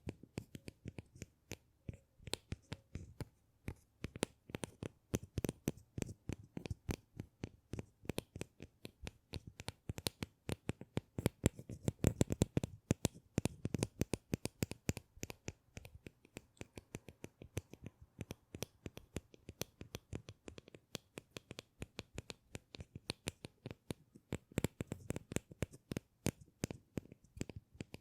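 Rapid, irregular tapping and scratching clicks by hand, several a second, without a break.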